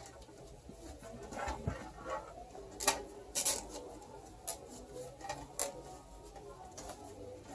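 Hands working on computer parts: irregular clicks, taps and light knocks of plastic and metal, the sharpest about three seconds in.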